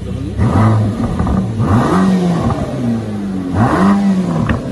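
Mercedes-AMG GT Black Series' 4.0-litre twin-turbo V8 revved three times while standing still, each blip rising and falling back. A short crack from the exhaust comes just after the last rev.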